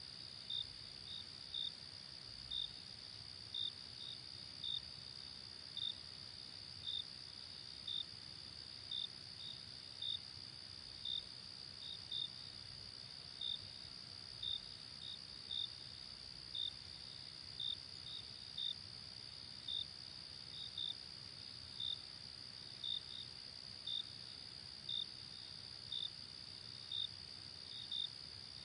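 Night chorus of chirping crickets: a steady high trill with louder single chirps repeating about once a second, often in pairs, over a soft hiss.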